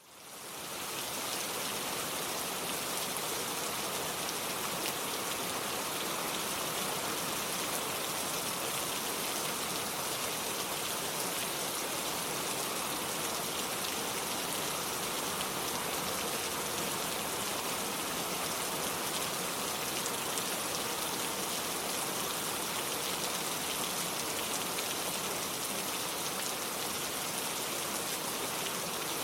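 Steady rain, an even hiss of countless drops with no letup, fading in over about the first second.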